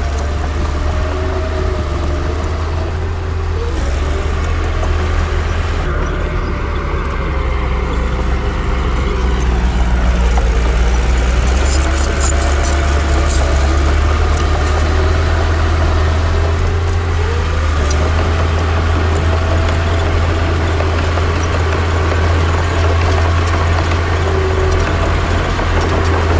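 Heavy earthmoving machinery working: a steady, deep diesel rumble with wavering whining tones that slide up and down, and scattered metallic clicks.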